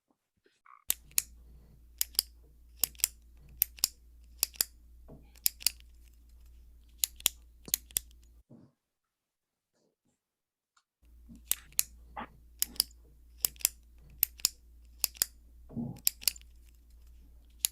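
Ballpoint pen clicked over and over: sharp clicks in close pairs, a little more than one pair a second, over a faint low hum. The clicking stops for a couple of seconds partway through and then starts again.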